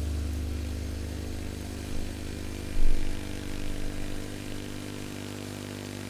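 John Deere 185 lawn tractor's 17-horsepower Kawasaki engine running steadily, driving a single-stage snowblower. Its low hum weakens about two seconds in, and a sharp knock sounds about three seconds in.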